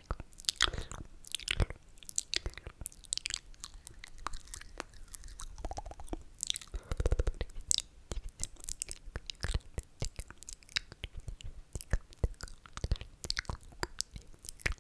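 Close-miked wet mouth sounds: quick clicks, smacks and slurps from the lips and tongue, with a denser, louder run of them about seven seconds in.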